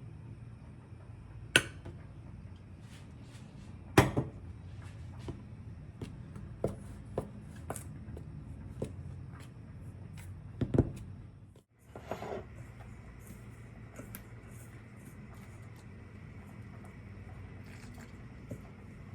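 Kitchen handling sounds: dishes and utensils knocked and set down, with a few sharp clinks and clatters over a low steady background. About two-thirds of the way through the sound cuts out briefly, and it is quieter after that, with only a few light knocks.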